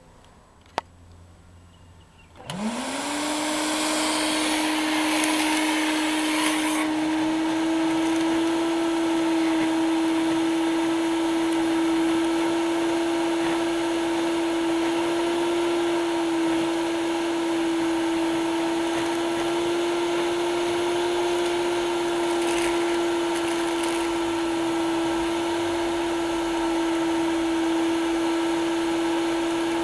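Arges 1000 W wet and dry vacuum cleaner switched on: a click, then about two and a half seconds in the motor spins up with a quickly rising whine and settles into a steady running whine. A hissing rush of air rides over it for the first few seconds, as it sucks up cement powder.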